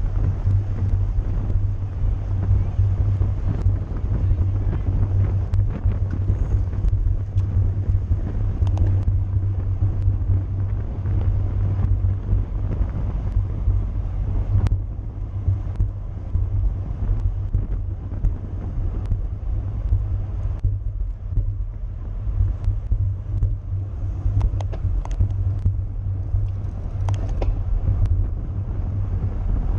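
Wind buffeting the microphone of a camera riding on a racing bicycle at speed, a steady loud rumble, with road and tyre noise and scattered light clicks from the bike.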